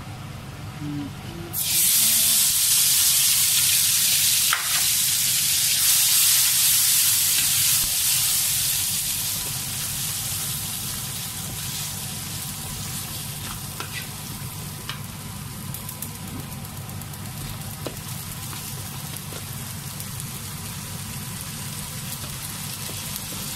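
A pale blended paste hits hot oil in a wok with whole spices and sizzles loudly from about a second and a half in. As it is stirred with a wooden spatula the sizzle settles after several seconds into a steadier, quieter frying hiss.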